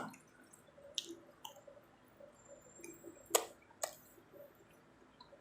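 Someone chewing pizza: soft, wet mouth sounds with a handful of sharp clicks and smacks, the two loudest a little past the middle.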